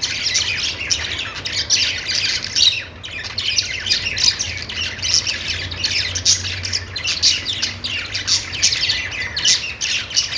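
A group of budgerigars chirping and chattering, many quick, overlapping calls with a brief lull about three seconds in.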